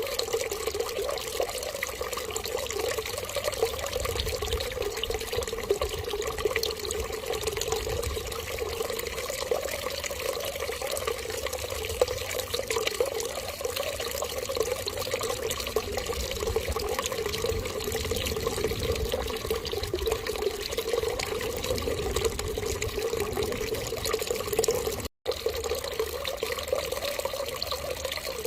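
Steady running water trickling, like a tap left running, with a momentary cut to silence about 25 seconds in.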